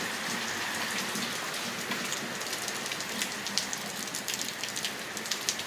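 Hard rain falling in a steady hiss, with single drops ticking sharply close by, more often in the second half.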